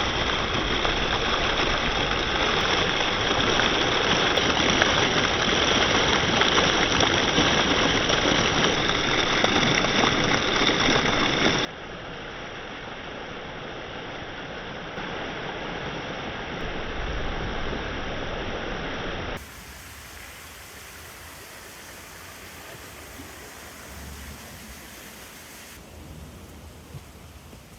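Steady hiss of heavy rain, loud at first, then dropping abruptly to a quieter level about twelve seconds in and again, quieter still, about nineteen seconds in.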